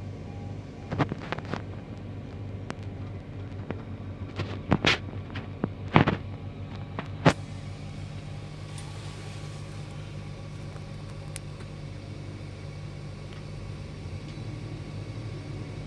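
A heavy machine's engine running steadily, with several sharp metallic clanks in the first half, the loudest about six seconds in.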